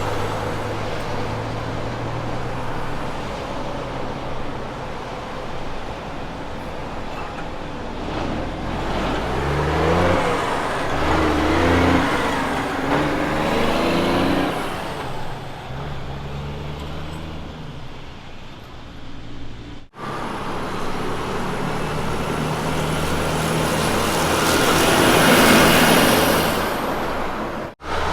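Kenworth trucks' diesel engines. One pulls away, its pitch climbing and dropping back in steps as it shifts up through the gears. After a sudden cut, another truck drives past, growing louder as it nears and then fading.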